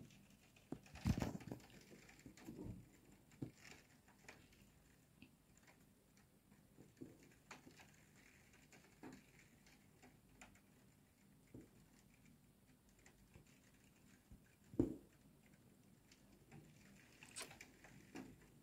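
Faint, irregular tapping of raindrops on a window pane and sill, with a couple of louder knocks, one about a second in and one a few seconds before the end.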